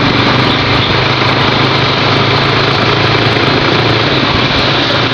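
Motorbike engine running steadily while riding, with a low hum under a constant rush of road and wind noise.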